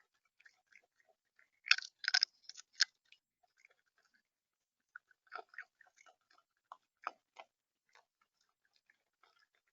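Irregular clicks and crunches of seed being pecked and cracked on a bird feeder, close to the feeder camera's microphone. A dense run of loud crunches comes about two seconds in, and another scattered run comes about five to seven seconds in.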